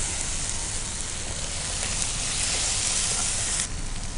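Chicken strips with onions and chilli masala frying in a nonstick pan on a gas burner, a steady sizzling hiss. The hiss turns duller near the end.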